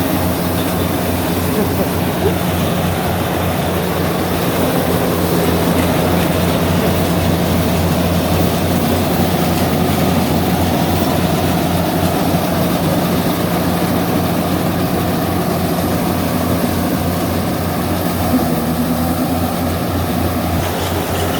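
Yanmar 70V rice combine harvester running steadily while harvesting, its diesel engine's drone constant throughout.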